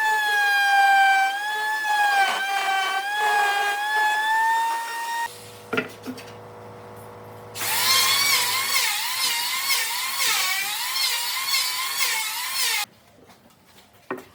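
Electric power tool running with a high motor whine, then after a short quieter pause with a click, running again with its pitch wobbling up and down as it works the wood; the sound cuts off abruptly near the end.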